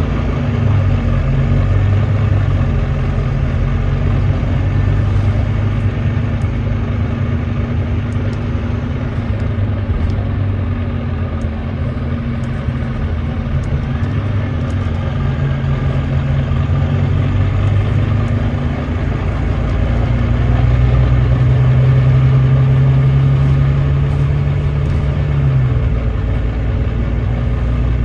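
Volvo D9B 9.3-litre diesel engine of a Volvo B9TL double-decker bus, heard on board, running under load on a hill climb, an engine the title calls misfiring. About three-quarters of the way through, the engine note holds steady for several seconds, then falls sharply near the end.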